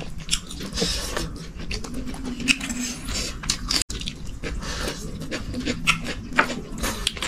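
People eating: chewing and lip-smacking with irregular small clicks and smacks.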